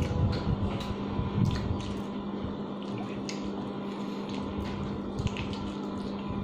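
Close-up eating sounds as handfuls of rice and chicken adobo are chewed: wet chewing and lip smacks as scattered small clicks, over a steady low hum.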